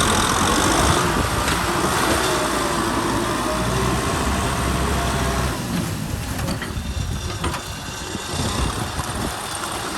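Kubota M6040 SU tractor's diesel engine running steadily, a little quieter from about halfway through.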